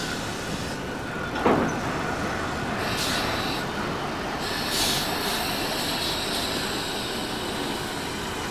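Steam-hauled train behind locomotive 3801 running along the track, heard from the leading carriage: steady wheel-on-rail running noise, with one sharp clank about a second and a half in.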